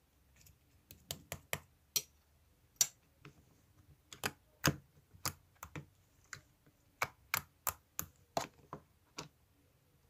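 A series of about twenty sharp clicks or taps at an uneven pace, some in quick runs and some with gaps of up to a second, like keystrokes.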